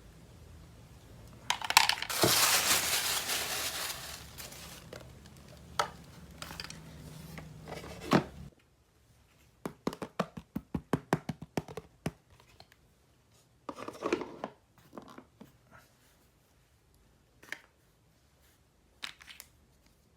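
Toy packaging being torn open: a loud rip about two seconds in, then crinkling. Later come a quick run of small clicks and taps and a few scattered rustles and clicks.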